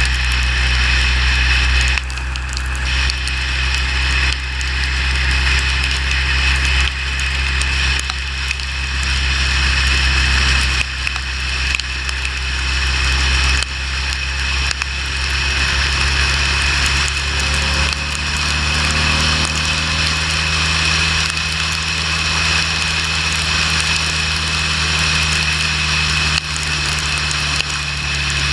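Motorcycle engine running steadily at road speed under a constant rush of wind and road noise. A little past halfway the engine note shifts, with a new higher tone coming in.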